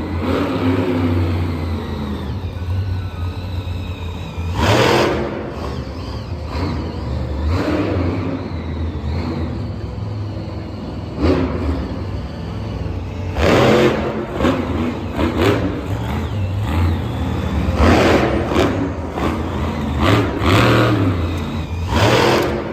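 Engine revving in repeated surges, about seven of them, over a steady low rumble.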